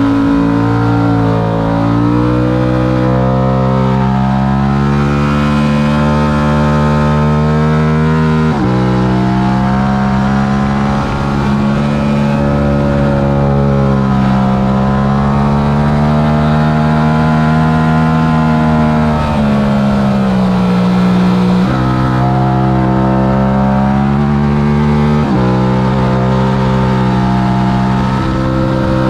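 Yamaha R7's parallel-twin engine at race pace, its pitch climbing as it accelerates and jumping suddenly at gear changes several times.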